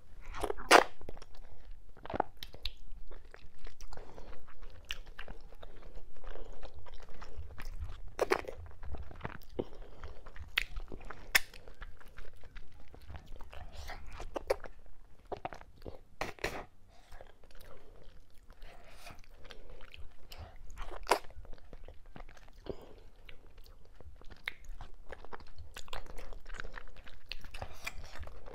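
Close-miked chewing and wet mouth sounds of a person eating fufu dipped in okra and ogbono soup by hand, with irregular smacks and clicks, a few of them louder.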